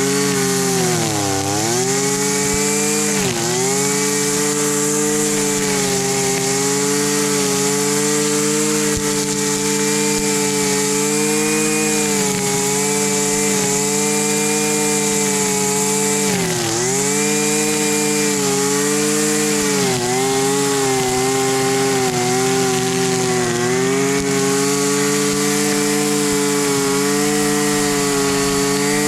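Small two-stroke engine of a Husqvarna 326 LD string trimmer running steadily at high speed. Its pitch dips briefly a few times, about a second in, near three seconds, and several times in the second half.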